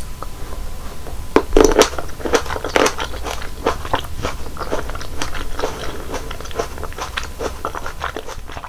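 Close-miked chewing and biting of fresh fruit, a dense run of wet, crunchy mouth sounds, loudest about two seconds in.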